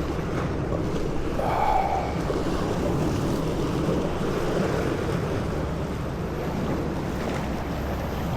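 Water rushing and wind buffeting on a small boat at sea, over a steady low hum. A short higher tone sounds briefly about a second and a half in.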